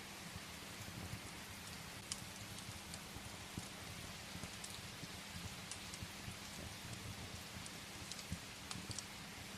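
Steady rain hiss with scattered sharp crackles of firewood burning in a fireplace.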